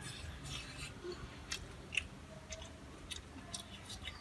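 Chewing of crisp fried ground-pork patties: faint, irregular small crunches and clicks, the sharpest a little before and about two seconds in.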